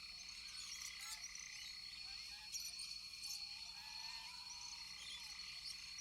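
Rainforest frog and insect chorus: steady high-pitched trilling with scattered chirps and clicks, and a longer wavering whistled call about four seconds in.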